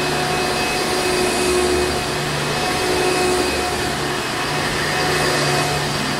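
Hoover Encore Supreme upright vacuum cleaner running steadily: a motor hum and whine over rushing air, swelling slightly every couple of seconds.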